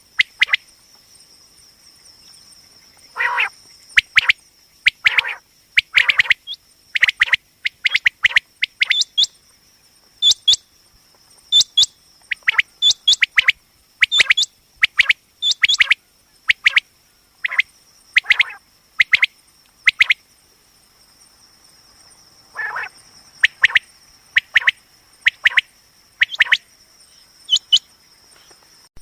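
Common quail calling: short, sharp chirping notes repeated again and again, often in quick groups of two or three, with brief pauses between groups. It is the call played as a hunting lure.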